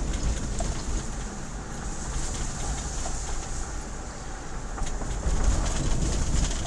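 Low road and engine rumble inside a moving car, growing louder about five seconds in.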